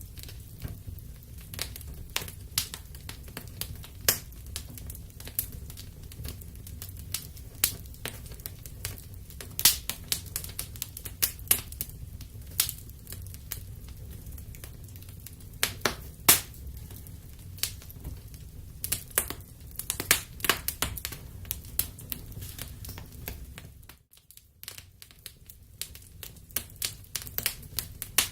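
Wood fire crackling in a fireplace: irregular sharp pops and snaps over a low steady rumble, with a brief lull about three-quarters of the way through before the crackling picks up again.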